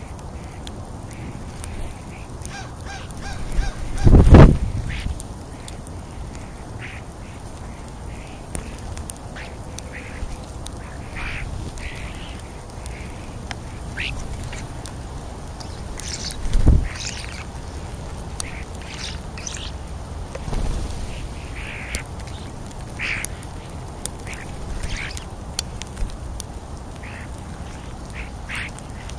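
Birds at a feeding spot giving many short, harsh calls scattered through the stretch. Twice a loud low thump breaks in.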